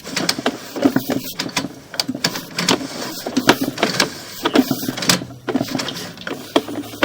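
Sewer inspection camera's push cable being worked back and forth through the line and on its reel: a run of irregular clattering knocks and scrapes, several a second.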